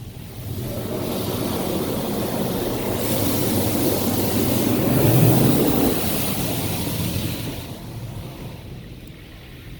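Touchless car wash gantry spraying water over a minivan. The steady rush of spray builds as the nozzles sweep close, is loudest about halfway through, and fades as they move away.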